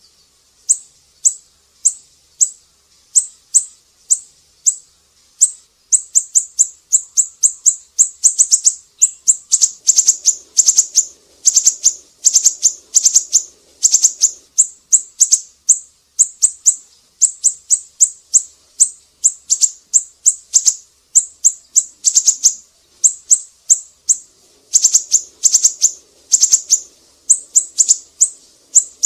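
Siri-siri songbird calling in sharp, high-pitched chirps. The chirps come about twice a second at first, then from about six seconds in they run in quicker strings of several notes a second. This is a song-tutor (masteran) recording used to teach cage songbirds.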